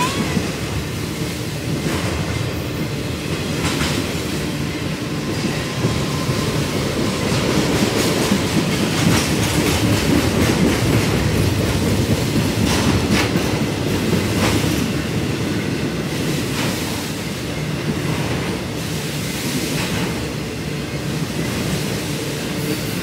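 Intermodal freight cars, loaded with truck trailers and containers, rolling past close by on the rails: a steady heavy rumble with repeated clacks from the wheels every second or two.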